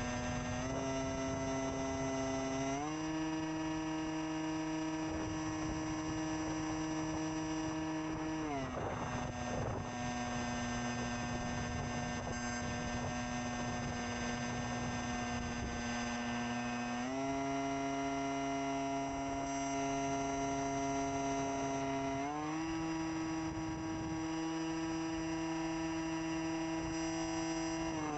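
HobbyZone AeroScout RC airplane's electric motor and propeller whining steadily in flight, heard close up from a camera on its landing gear. The pitch steps up about three seconds in, drops at about eight and a half seconds, then rises again in two steps at about seventeen and twenty-two seconds as the throttle is changed.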